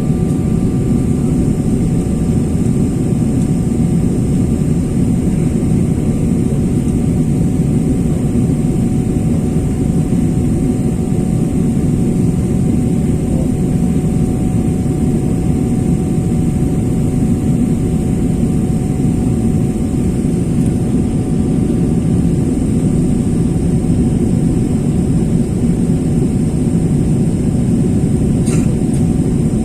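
Steady jet airliner cabin noise: an even, loud rumble of engines and airflow, with faint steady tones running over it.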